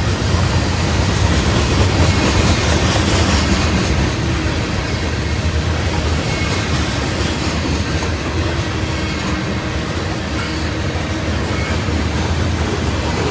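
A train rolling past, its cars' steel wheels running on the rails with a steady, loud rumble.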